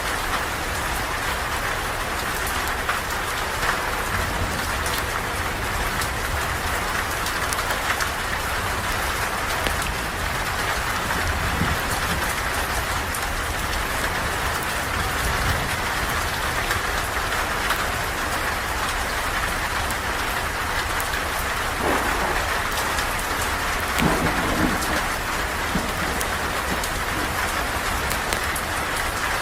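Steady rain falling, a dense even hiss of water with many small drop ticks, and two brief louder low sounds near the end.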